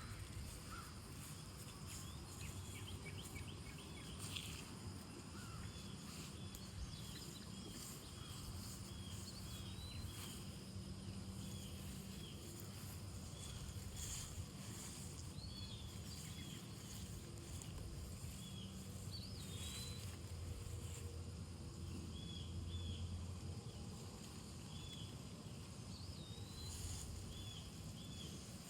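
Outdoor ambience: short high chirps repeating about once a second over a low steady rumble.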